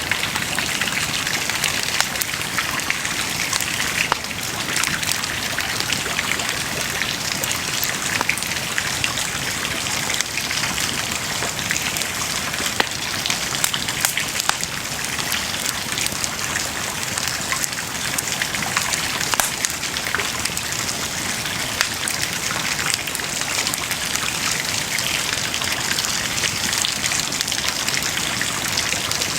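Wood bonfire burning and crackling: a steady hiss of flames with frequent small sharp pops and snaps throughout.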